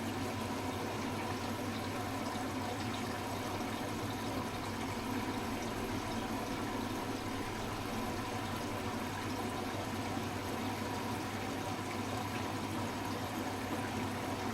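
Hoover H-Wash 300 Plus washing machine running steadily, with a constant rush of water and a low hum.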